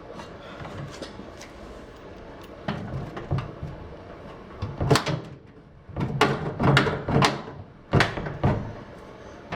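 Clunks and knocks of an over-the-range microwave oven being lowered and tilted off its wall mount: a few light knocks about three seconds in, then louder sharp clunks from about five seconds to near the end.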